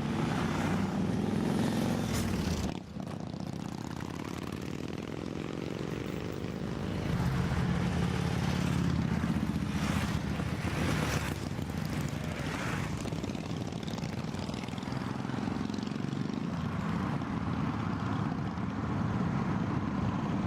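Steady vehicle engine and road noise while driving uphill, with motorcycles going by the other way: several brief louder surges as they pass.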